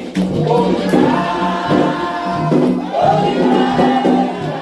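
Group of voices singing a Candomblé chant together over drums.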